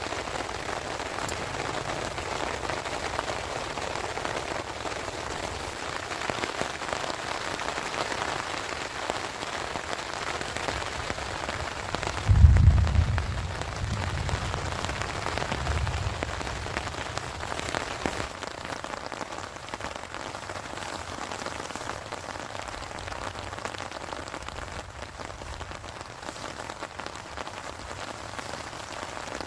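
Steady heavy rain falling, a dense hiss of drops. About twelve seconds in comes a short, loud low rumble that dies away over the next few seconds.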